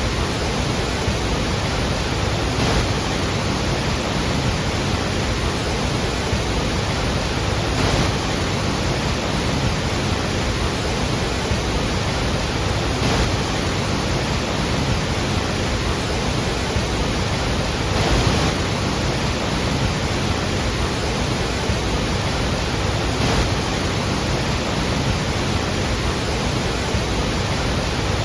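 Large waterfall's falling water making a loud, steady rushing roar, with a slight swell about every five seconds.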